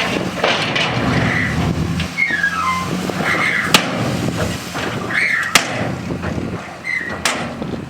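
Diesel engine of heavy earthmoving machinery running steadily, with a few sharp metallic knocks and short high-pitched whistling squeaks over it.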